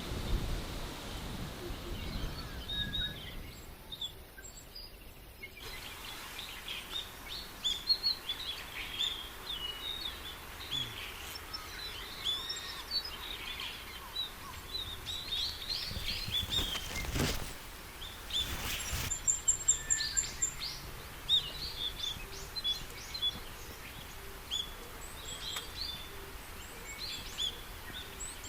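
Forest birds chirping and calling, many short high notes overlapping, over a soft outdoor background. Past the middle there are a couple of brief noise bursts.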